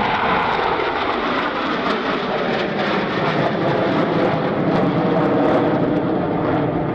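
Blue Angels F/A-18 Super Hornet jets flying in formation, a loud steady jet-engine roar.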